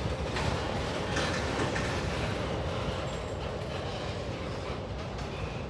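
An empty pulp freight train rolling past, its steel wheels running on the rails in a steady noise, with a few knocks about a second in.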